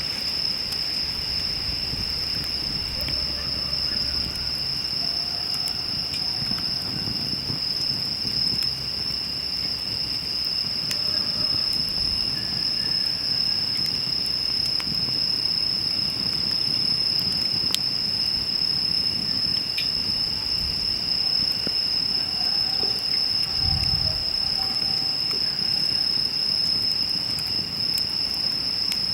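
Insects trilling in a continuous high-pitched drone, with scattered faint crackles and pops from a burning wood campfire.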